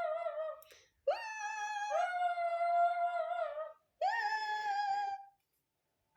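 A pet animal giving long, drawn-out, high-pitched howl-like calls: one trailing off just after the start, then three more, each opening with a quick upward swoop and held for one to two seconds.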